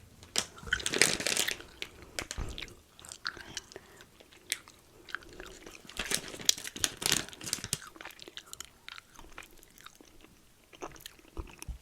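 Crunchy snack being chewed close to the microphone, crackling in bursts about a second in and again around six to seven seconds in.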